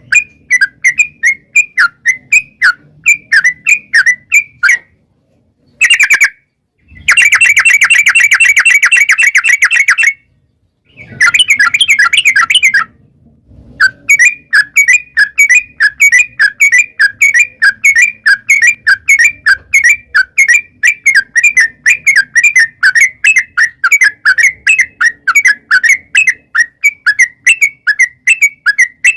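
Yellow-vented bulbul (trucuk) singing a long run of loud whistled chirps, with a very fast rattling burst of notes a few seconds in, short abrupt breaks, and then a steady string of about three to four notes a second.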